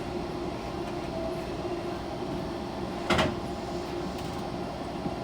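Inside a stopped Fukuoka City Subway 2000-series car: a steady hum from the train's onboard equipment, with a single sharp clunk about three seconds in.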